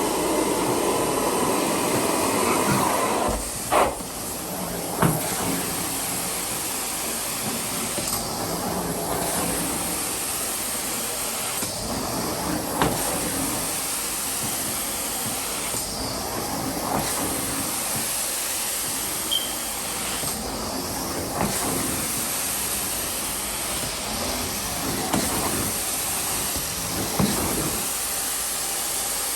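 Carpet extractor wand spraying and sucking up water as it is pulled across the carpet: a steady hiss that changes with each stroke every few seconds, with a few sharp clicks.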